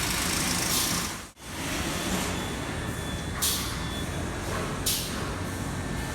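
Steady assembly-line machinery din on a tractor tyre-fitting line, with two short hisses of compressed air about a second and a half apart.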